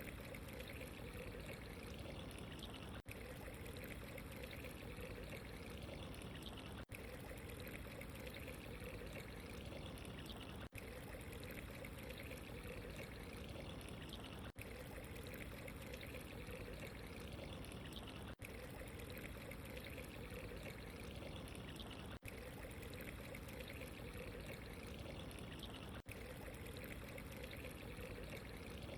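Steady running, trickling water, broken by a very brief dip in level about every four seconds.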